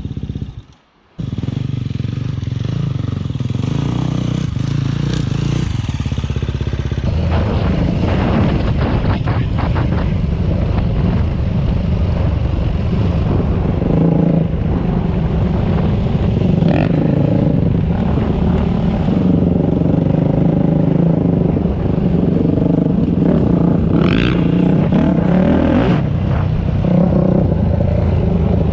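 Dirt bike engine running steadily while being ridden on a trail, with rattling and clatter over the rough ground. A brief drop to near silence about a second in, after which the engine picks up again.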